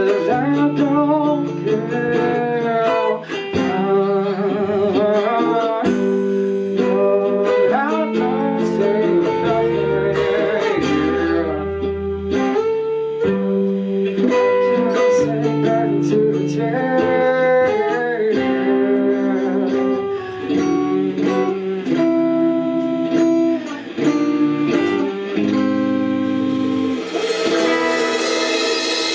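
Live band playing a slow song, with guitar lines bending and wavering over sustained lower notes. Near the end a bright, hissing wash in the highs swells up, like cymbals building.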